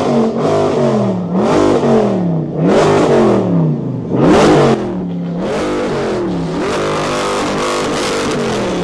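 A loud car engine revved in repeated blips, rising and falling about once a second, then held at a steadier, slightly wavering rev near the end.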